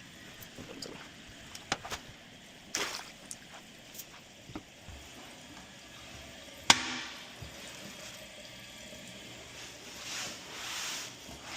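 Toilet fill valve refilling the tank: a steady hiss and trickle of water, with a few light knocks and one sharp click a little past halfway.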